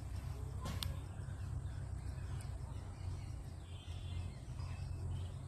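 Outdoor ambience: a steady low rumble with a single sharp click just before a second in and a few faint bird chirps.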